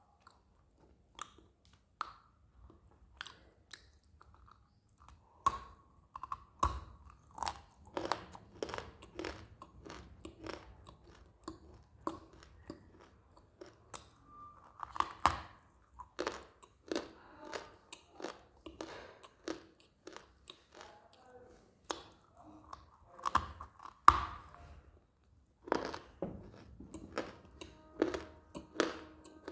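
A person biting and chewing hard pieces of dry clay up close to the mouth, with sharp, irregular crunches. The crunches are sparse at first and come thick and fast from about five seconds in.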